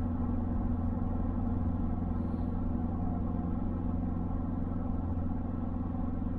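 Ford Focus ST Mk4's turbocharged 2.3-litre four-cylinder engine and road noise, a steady drone at unchanging pitch while cruising at a constant speed.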